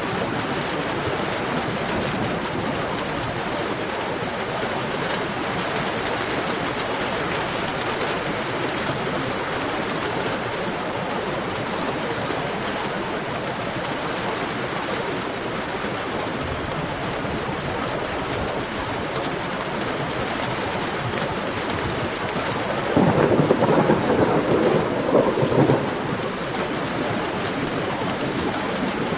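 Heavy rain falling steadily, with a short rumble of thunder lasting about three seconds near the end.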